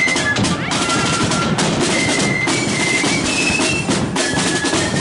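Marching flute band playing a tune: high flute notes carry the melody over rattling snare drums and a steady bass drum.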